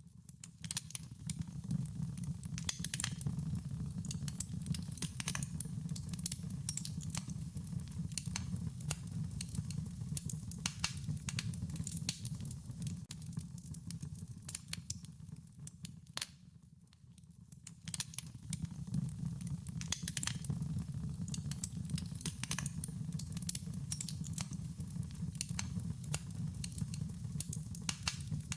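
Wood fire crackling: irregular sharp pops and snaps over a steady low rumble of flame. The sound sinks away for about a second just past the middle, then resumes.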